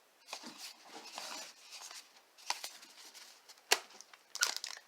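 Trading cards and a foil pack wrapper being handled: soft rustling and sliding of cards with a couple of sharp clicks, then louder wrapper crinkling near the end.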